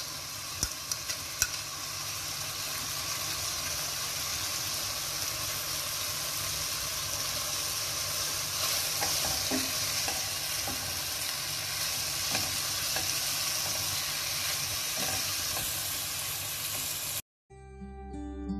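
Chicken, cabbage, onion and tomato sizzling in a pot on the stove, stirred with a wooden spoon, with a few sharp clicks in the first second or two as the vegetables go in. Near the end the sizzling cuts off suddenly and acoustic guitar music begins.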